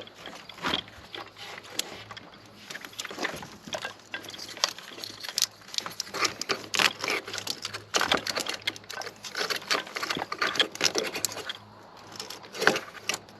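Hands working a washer hose and plastic parts into place in a car: a run of irregular clicks, taps and rattles.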